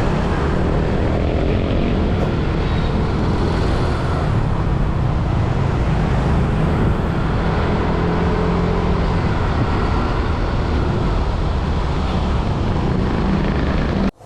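Motorbike riding along a road: a steady drone of engine, road and wind noise. It cuts off abruptly near the end.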